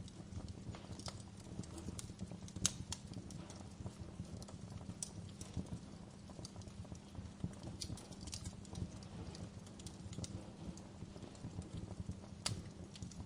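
Wood fire crackling in a fireplace: irregular sharp pops and snaps over a low steady rumble, with a louder pop about two and a half seconds in and another near the end.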